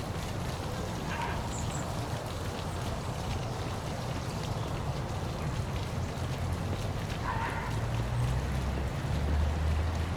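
Waterfall splashing steadily, with a low rumble underneath. Two faint brief calls rise above it, about a second in and again after about seven seconds.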